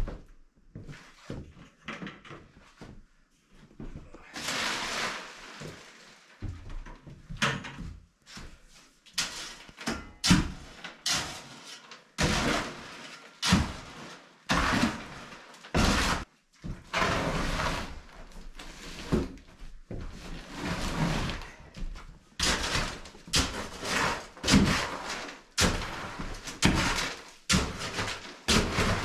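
Irregular knocks and thuds, many in quick succession, with a few longer scraping noises in between.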